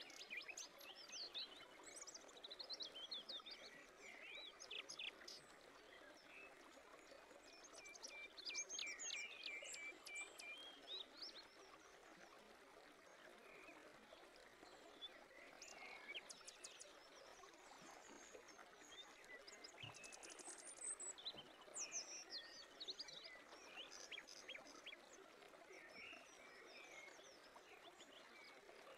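Faint birdsong: scattered chirps and short trilling calls, busiest in the first third, over a soft steady background hiss.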